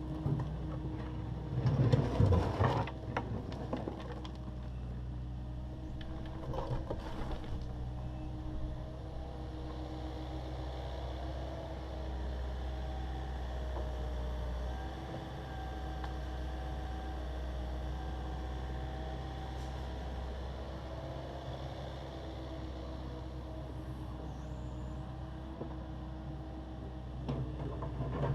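Takeuchi TB260 excavator's diesel engine running steadily with its hydraulics working. Loud crunching and scraping of concrete being broken up and moved, about two seconds in and again around seven seconds, and more faintly near the end.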